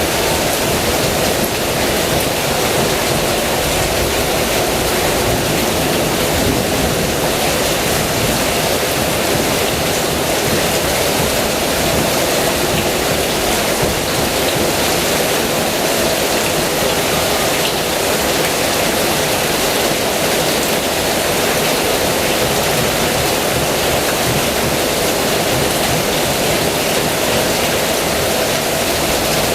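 Heavy rain falling steadily, a dense, even hiss with no let-up or thunder.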